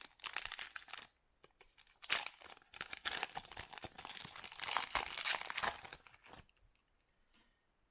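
Foil wrapper of a Donruss Optic basketball card pack being torn open and crinkled in several bursts.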